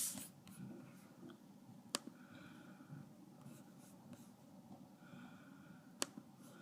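Faint rubbing and handling on a laptop, with two sharp clicks about four seconds apart, in a quiet small room.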